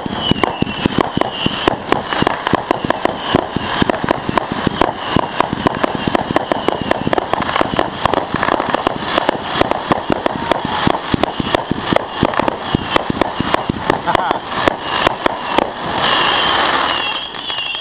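Fireworks going off in a rapid barrage of bangs and pops, many a second. Near the end comes a louder, denser burst of crackling lasting over a second.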